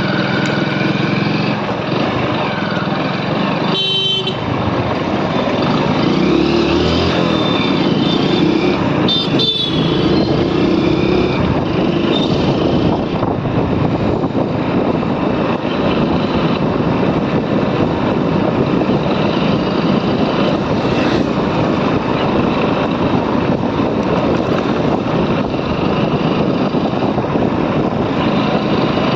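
Motorcycle riding along a road: steady engine and road noise with heavy rushing noise over it, and two short high-pitched tones about four and nine seconds in.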